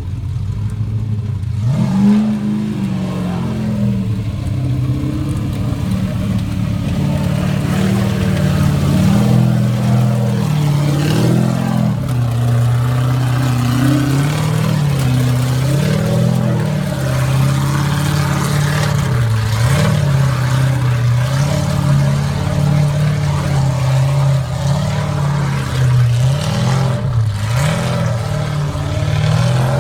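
Ultra4 rock-racing car's engine revving up and down again and again under short bursts of throttle as it climbs over rocks.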